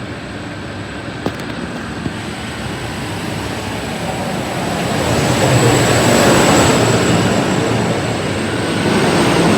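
Endeavour diesel railcar set pulling away from the platform, its engines and wheels growing louder as it goes by, loudest about six seconds in. Two sharp clicks a second or two in.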